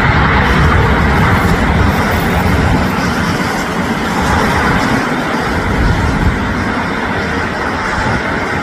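Jet engines of a Boeing 747-400 freighter landing: a loud, steady roar with a deep rumble, easing slightly after about three seconds.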